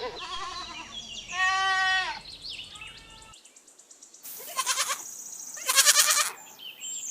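Goats bleating several times, including one clear, drawn-out bleat about a second and a half in. Harsher, rougher bleats follow in the second half.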